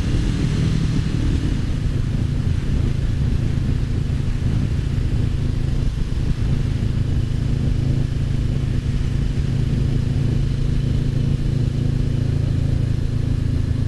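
Honda CBR500R's parallel-twin engine running steadily under way, heard from the rider's own bike with road and wind noise.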